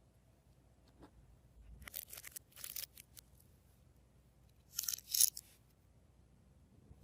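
Slime being squeezed and worked by hand, making sticky crackling and popping noises in short bursts. The two loudest bursts come close together about five seconds in.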